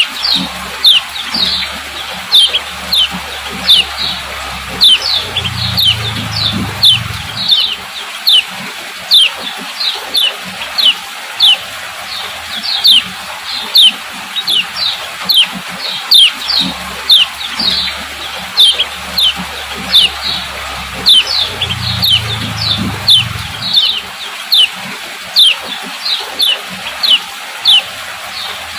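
Female kecial kuning (a yellow white-eye) calling 'ciak ciak': short, sharp, falling chirps, repeated about twice a second over a steady hiss. A faint low hum comes in twice.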